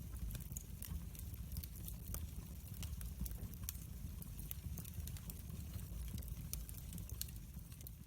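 Wood fire burning in a fireplace, crackling: irregular sharp pops and snaps over a steady low rumble.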